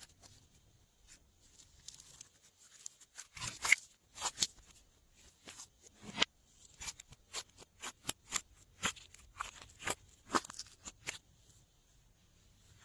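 Glossy slime being mixed by hand: a run of irregular sticky clicks and pops, starting about three seconds in and dying away near the end.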